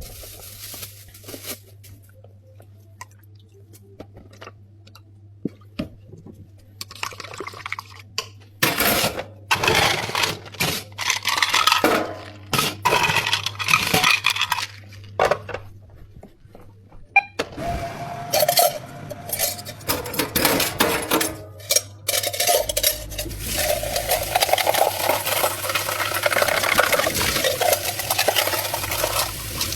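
Bubble tea being made: ice, cups and utensils clinking and clattering in irregular bursts, thickening into continuous rattling over the last several seconds, over a low steady machine hum.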